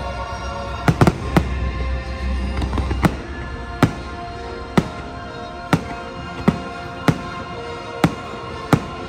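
Fireworks shells bursting in sharp single bangs, about one a second with a quick cluster near the start, over the fireworks show's music.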